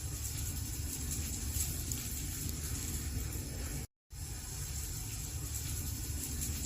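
Wood fire burning in a fireplace: a steady hiss and low rumble with faint crackles. The sound cuts out completely for a split second about four seconds in, then resumes unchanged.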